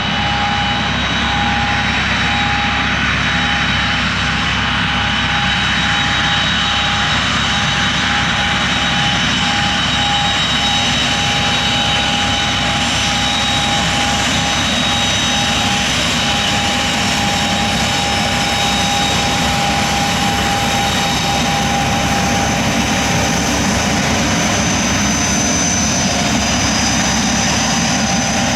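Aircraft turbine engines running steadily, a loud, even rush with a high steady whine over it.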